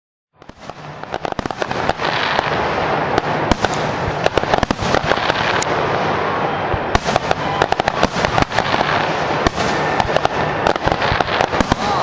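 Fireworks display: aerial shells and rockets going off in a dense, continuous barrage of sharp bangs and crackling. The sound fades in over the first second or two.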